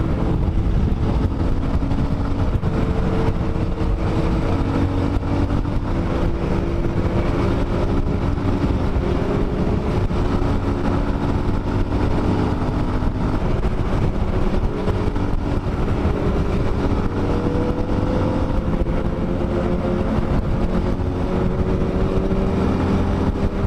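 Dafra Next 250 single-cylinder motorcycle engine running steadily at cruising speed under a dense rush of wind and road noise. Its pitch rises gently about two-thirds of the way through as the bike speeds up a little.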